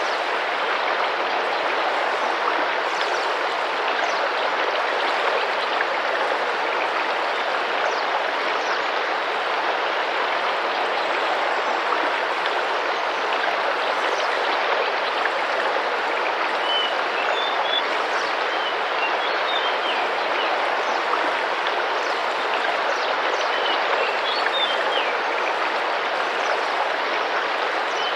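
Rainforest river water rushing and splashing steadily, with short high bird chirps over it in the second half.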